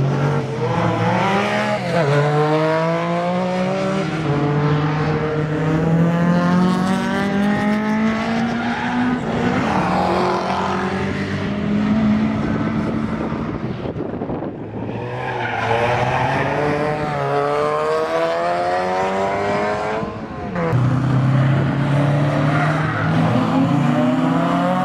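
Car engine at full throttle, its note climbing through each gear with sudden drops at the gear changes. There is a brief lull about midway, then another car or run climbs through the gears again.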